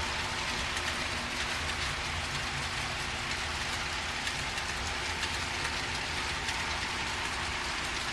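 HO scale model freight train running: the locomotive's onboard sound plays a steady engine rumble under a constant hiss of the long train's wheels rolling on the track.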